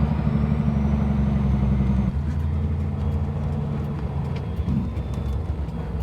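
Vehicle engine running, heard from inside the cab while slowing for a stop; its steady hum drops in pitch and level about two seconds in, then keeps running evenly.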